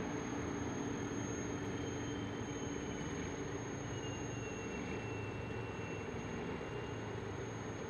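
Train passing, a steady rumble that slowly fades, with a faint thin high whine about four seconds in.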